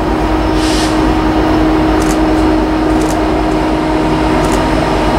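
Norfolk Southern freight train approaching: a loud, steady rumble with a steady hum that stops near the end, and a few faint clicks.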